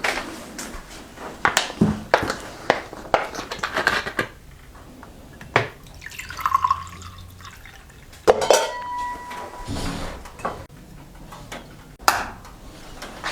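Dishes and cutlery being handled, with irregular clinks and knocks.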